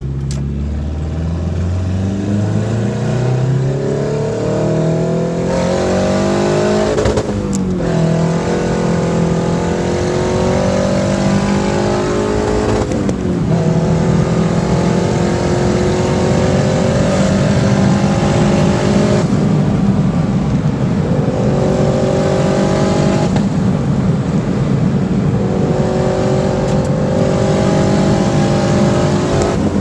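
Twin-turbo four-cylinder engine of a custom Honda Integra accelerating hard through the gears. Its pitch climbs, then drops at each upshift, about five times.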